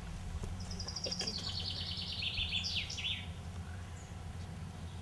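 A songbird singing one phrase: a high, rapid trill that steps down in pitch and ends in a few falling slurs, over a steady low background rumble.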